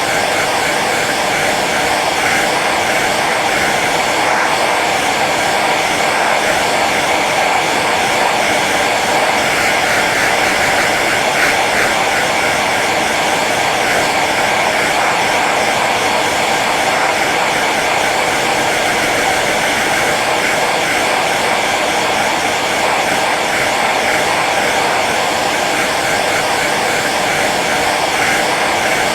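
Hair dryer running steadily on its low setting: an even blowing hum with no change in pitch or level.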